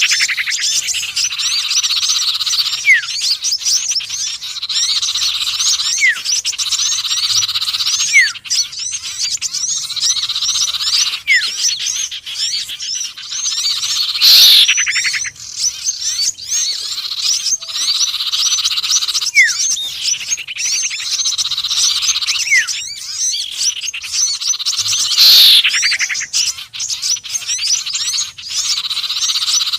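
Looped bird-lure recording mixing the calls of small songbirds (sirtu, konin and sepah raja, the crimson sunbird). Dense high chirping runs throughout, with short rising whistles every few seconds and a loud falling call three times: at the start, about 14 s in and about 25 s in.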